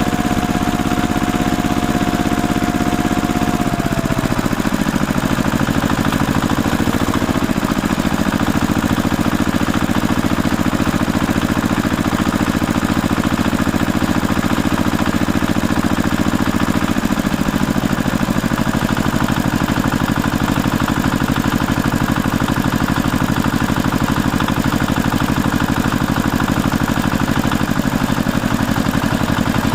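An engine running steadily, its pitch dropping a little about four seconds in and again near the middle.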